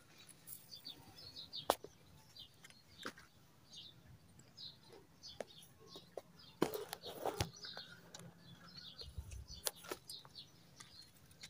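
Birds chirping faintly in short, high chirps, with a few sharp clicks and knocks here and there.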